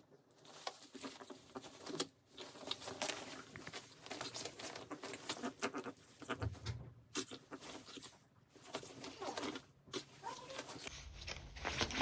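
Maltese dog grumbling in irregular bursts with short pauses between them, a sound its owner takes for temper rather than excitement.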